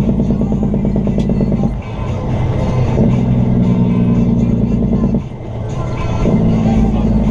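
Semi truck's diesel engine running under load, dropping off briefly twice and then pulling again, with music playing over it.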